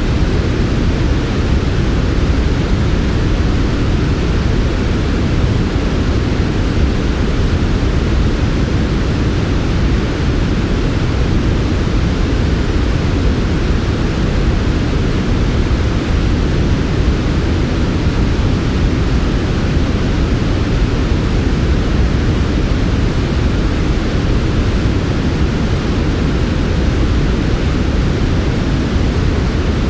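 Steady synthetic noise for sleep, with no changes or events: a smooth hiss weighted toward the low end, closer to pink or brown noise than flat white noise.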